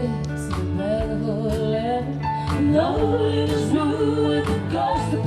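Band music with singing over held chords.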